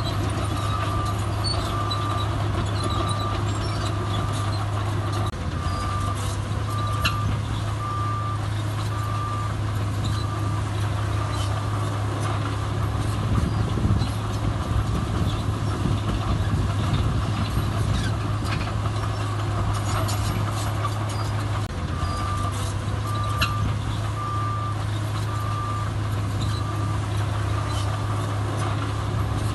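Heavy diesel construction machine running steadily while its reversing alarm beeps at about one beep a second. The beeping stops after about eleven seconds and starts again a little past the twenty-second mark.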